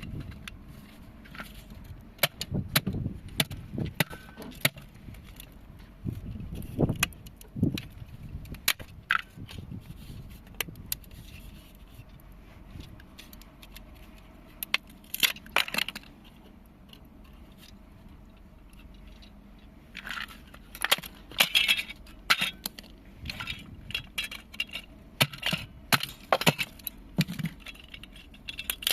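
Small plastic and metal device parts being broken and handled: irregular sharp clicks, cracks and clinks in scattered clusters, with quieter gaps between.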